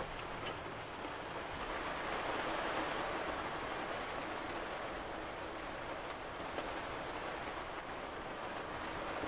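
Steady rain falling on the roof of a 1998 Lance Squire 3000 truck camper, heard from inside, with a few faint ticks of single drops.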